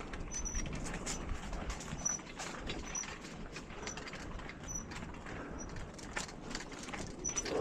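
Bicycle in motion on a park path: steady rolling noise with many irregular light clicks and rattles, and a short high chirp recurring every second or so.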